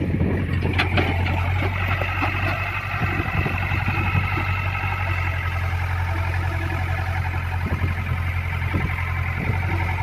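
Hitachi hydraulic excavator's diesel engine running steadily, a deep even drone with a steady high whine above it and a few light knocks and clanks.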